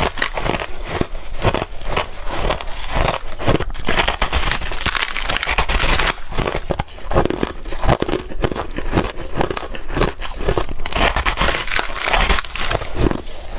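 A person biting and chewing crushed ice chunks close to the microphone: a continuous run of loud, crackling crunches.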